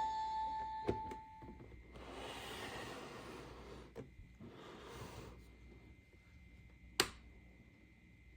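Plastic toy pieces being handled, with rustling and a few light clicks, and one sharp click about seven seconds in. A musical jingle ends within the first second and a half.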